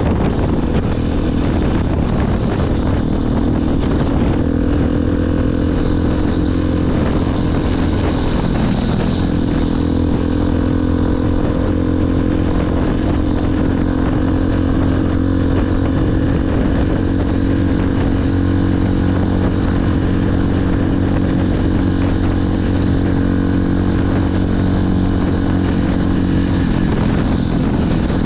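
Motorcycle engine running while riding, with a steady low rumble. The engine note shifts about 3 and 9 seconds in and drops near the end.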